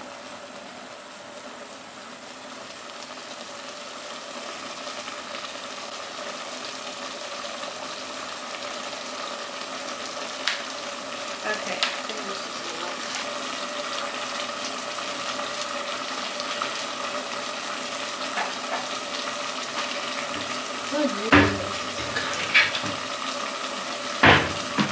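Chicken pieces frying in a non-stick pot with a steady sizzle that slowly grows louder, dotted with small pops. A few sharper knocks near the end, from a wooden spoon against the pot.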